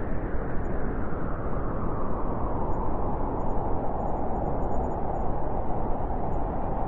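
Blizzard wind howling steadily, a dense rush with a hollow whistle that grows stronger and sinks slightly in pitch after a couple of seconds.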